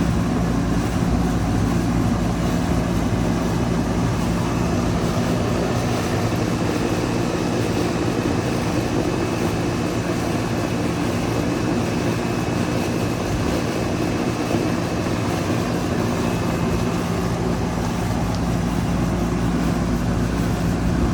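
2003 Carrier 38CKC 3-ton central air conditioner condensing unit running steadily: a loud compressor hum with a strong low steady tone under the rush of the condenser fan. A faint high whine comes and goes in the middle.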